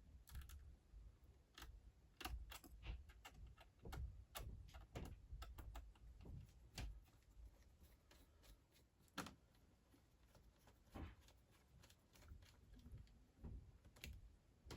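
Faint, irregular clicks and small metallic ticks as tiny T6 Torx screws are driven back into a white iMac's case with a screwdriver.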